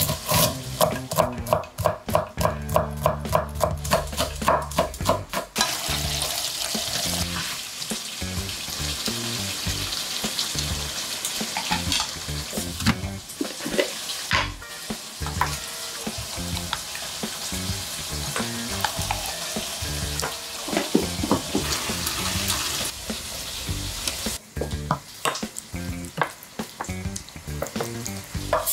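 Food sizzling in a hot pan while being stirred, with scrapes and clatters from the utensil, from about five seconds in. Before that, a quick regular run of knocks.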